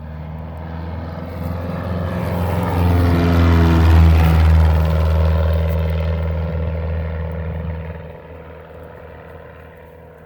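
Small propeller airplane flying past. Its engine grows louder to a peak about four seconds in, then fades away.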